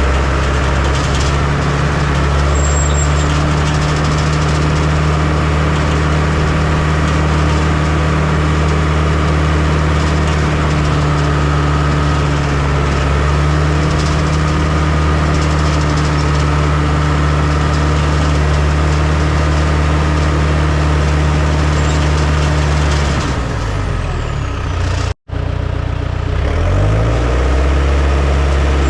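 Heavy diesel engine of earthmoving equipment running steadily. Near the end the engine note drops, cuts out for a moment, then rises again.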